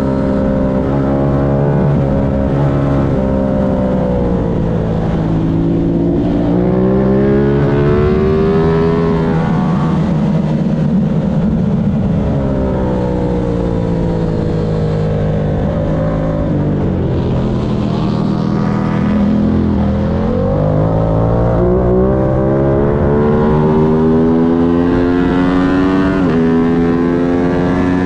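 Racing motorcycle engine at high revs, its pitch repeatedly climbing under acceleration, stepping at gear changes and falling as the bike slows for corners.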